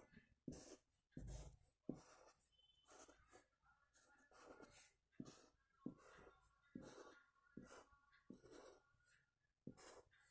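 Faint, irregular scratchy strokes of rangoli powder being drawn by hand on a floor, each stroke a short hiss with a soft tap at its start.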